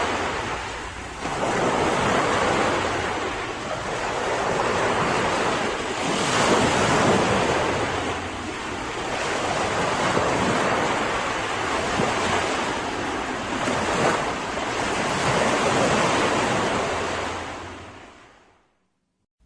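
Mediterranean sea waves washing onto a beach, the surf rising and falling every few seconds, with wind buffeting the microphone. The sound fades out to silence near the end.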